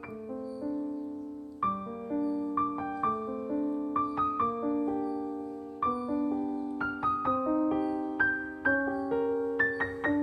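Background music: a slow piano piece, single struck notes of a melody over sustained lower chords, each note fading after it is struck.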